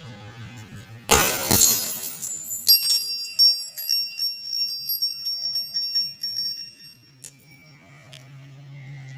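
A loud crunch about a second in, lasting about a second, as an object is crushed, with a low steady hum before and after it. Then several seconds of high, jingling bell-like tones.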